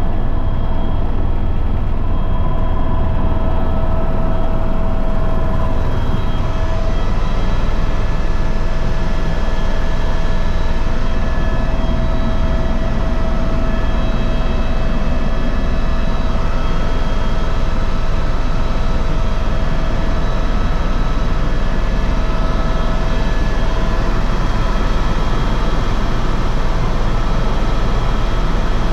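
Helicopter in flight: a steady, loud engine and rotor drone, with several constant whining tones over a deep rumble.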